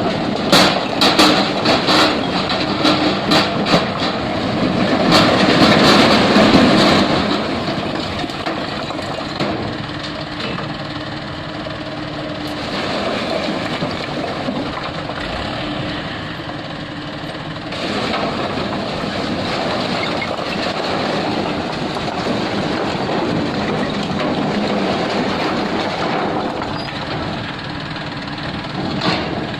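Dump truck engine running while a load of stones is tipped out of the bed. Rapid rattling and clatter of rock comes first, then a loud rush about six seconds in, and the engine keeps running steadily afterwards.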